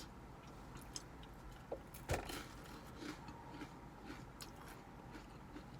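Quiet eating sounds: soft chewing and small scattered clicks, with one louder knock about two seconds in.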